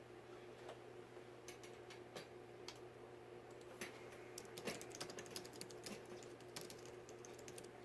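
Faint, irregular little clicks and taps of hardware being handled while a ceiling fan's canopy is fitted, busiest about halfway through, over a faint steady hum.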